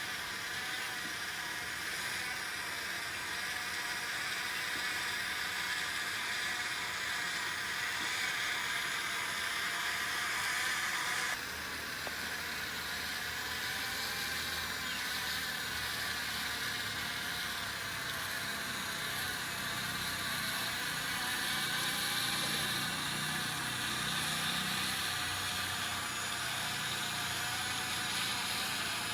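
Small electric motors of an RC excavator whirring steadily, with a thin high whine that wavers slightly in pitch over a hiss. The sound changes abruptly about eleven seconds in.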